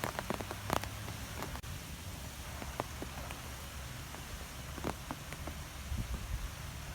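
Wind blowing through trees: a steady hiss with a low rumble of wind on the microphone. Scattered sharp ticks and taps run through it, the loudest a little under a second in.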